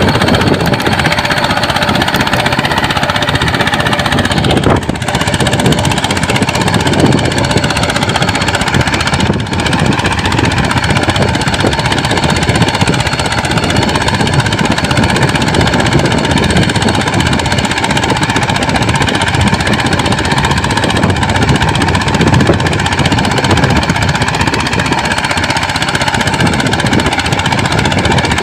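Mini tractor engine running steadily with a fast, even chugging, briefly dipping twice in the first ten seconds.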